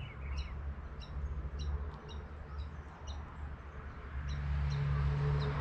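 A small bird chirps over and over, short high notes about twice a second, over a louder low rumble. A steady low hum joins about four seconds in.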